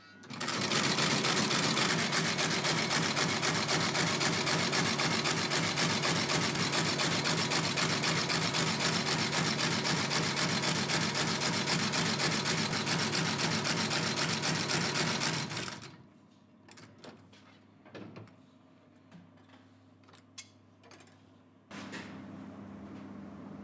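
Shoe-repair sewing machine stitching at a rapid, even stroke for about fifteen seconds, then stopping abruptly. A few light clicks follow, and near the end a steady machine hum starts.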